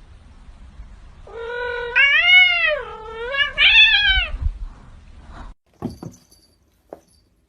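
Domestic cat yowling: one long drawn-out meow of about three seconds that rises and falls in pitch twice. A couple of brief knocks follow near the end.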